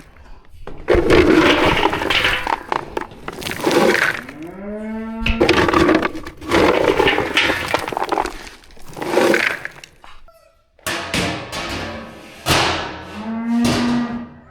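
Cattle mooing repeatedly, many long calls one after another, some of them rough and noisy.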